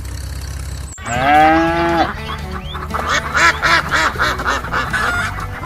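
Animal calls over a steady low hum: one long call starting about a second in, then a run of short, rapid calls.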